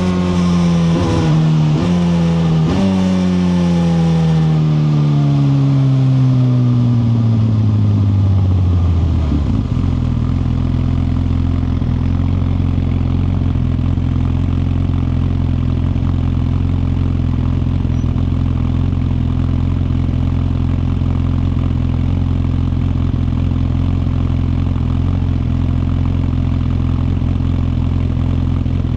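2021 Suzuki GSX-R1000R's inline-four engine slowing down. Its pitch drops in a few quick steps, like downshifts, in the first three seconds, then falls smoothly as the bike rolls to a stop. From about ten seconds in it idles steadily.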